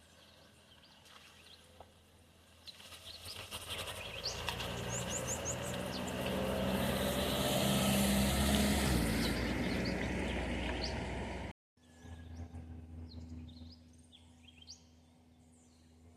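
A motor vehicle drives past, its engine and road noise building over several seconds, then cutting off abruptly about twelve seconds in. Birds chirp before and after.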